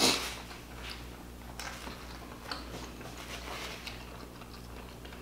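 A person chewing food close to the microphone, with faint scattered wet clicks from the mouth and a short louder smack right at the start.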